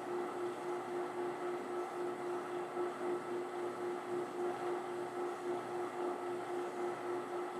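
Powered sanding tool running steadily as wood is sanded, a steady motor hum with a slight regular pulse and a rough sanding hiss over it.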